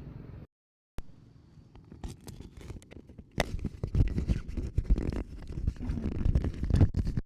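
BMW R 1250 GS Adventure boxer-twin engine rumble, picked up by a clip-on wireless mic, that cuts out completely for half a second near the start. It comes back faint and uneven, then from about halfway through turns into loud, irregular rumbling with sharp crackly peaks.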